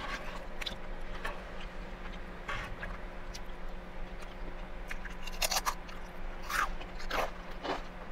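Close-up crunching and chewing of a crisp chip, in short bursts of crunches that come thicker in the second half.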